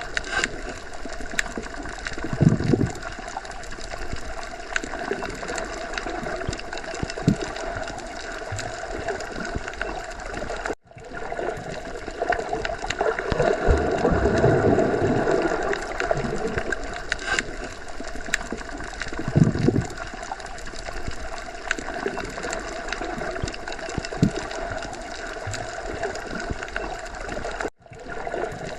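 Underwater ocean ambience: a steady watery hiss with gurgling, swelling now and then into low rumbles. It cuts out for an instant twice.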